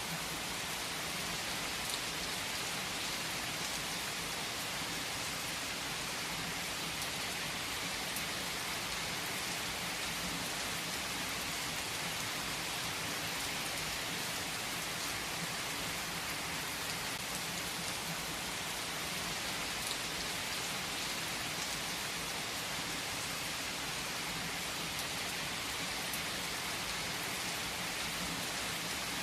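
Steady rain falling on a surface, an even hiss with scattered louder drops ticking now and then.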